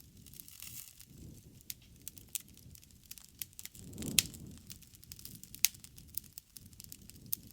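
Wood bonfire crackling, with irregular sharp snaps and one loud pop about four seconds in over a brief low rush of flame.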